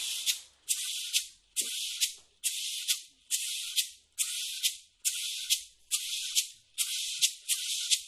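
A maraca shaken alone in a steady rhythm, just under a stroke per second: each stroke is a short rattle of seeds ending in a sharp accent.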